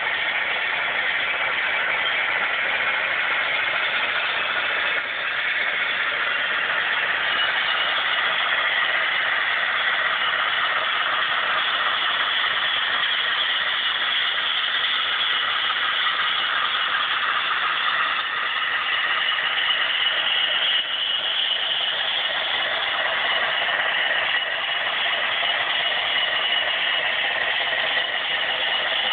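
HO-scale Broadway Limited Centipede model locomotive running on the layout track: a steady engine-like running sound with rattling, changing little over the stretch.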